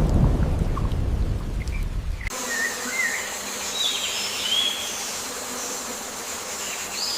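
A loud low rumble for the first two seconds, cutting off abruptly into jungle ambience: a steady background hiss with several short bird chirps.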